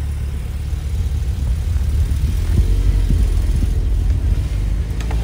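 Porsche 911 Turbo cabriolet's twin-turbo flat-six engine rumbling steadily at low revs as the car creeps along at walking pace.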